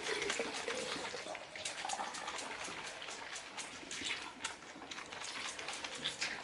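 Young animals suckling milk from feeding bottles: a run of small, irregular wet sucking and slurping clicks.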